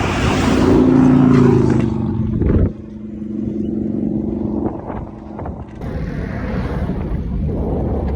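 Motor vehicle engine running close by, its pitch falling slightly over the first couple of seconds, then a steadier low hum that fades out about halfway, over rumbling traffic and wind noise.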